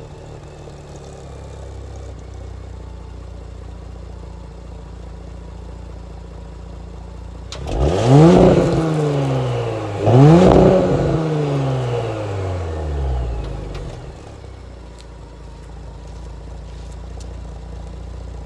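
Audi B9 S5's turbocharged 3.0-litre V6, fitted with a Euro-edition exhaust mod, idling, then revved twice about eight seconds in, the blips about two and a half seconds apart. Each rev climbs quickly and winds down slowly, and the engine settles back to idle after the second.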